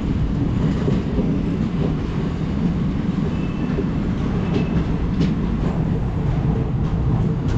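Kamban Express passenger train rolling into a station, heard from an open coach doorway: a steady heavy rumble of wheels on rails with a few faint clicks from rail joints.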